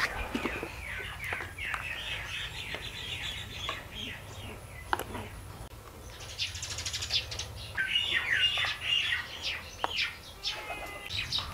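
Small birds chirping over and over in short, falling notes, with a fast trill partway through. A few light knocks come in between.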